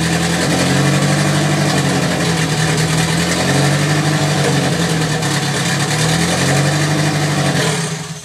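Mitsubishi 4G63 2.0-litre turbocharged four-cylinder engine of a 1990 Eclipse GSX idling, its idle rising and dipping slightly. This is its first run after a turbo rebuild with a bigger hotside, a new turbo manifold and a new wastegate. The engine is switched off near the end and the sound dies away.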